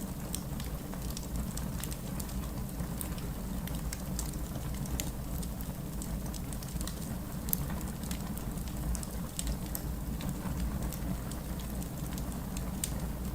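Steady rain mixed with a crackling fireplace: scattered sharp pops and ticks over an even hiss and a low, steady rumble.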